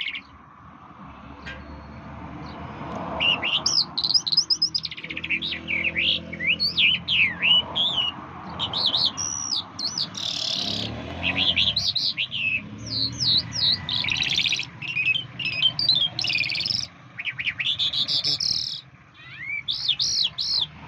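A songbird singing almost without pause: rapid runs of quick, sweeping whistled chirps and trills in repeated phrases, with a brief lull near the end. A steady low background hiss runs beneath the song.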